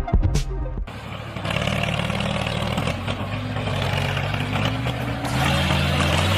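Electronic music cuts off about a second in. It gives way to a homemade mini tractor's small engine running steadily, a little louder near the end.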